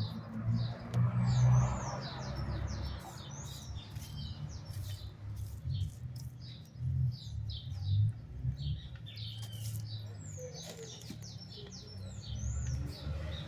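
Small birds chirping with many quick, high calls in close succession, over a low rumble that swells louder a couple of times.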